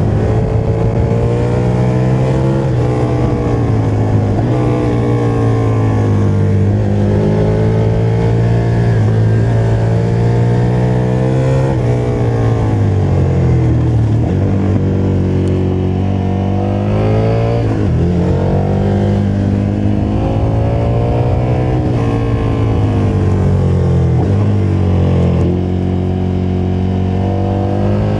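KTM motorcycle engine under way, its revs climbing and then dropping back several times as it shifts gear.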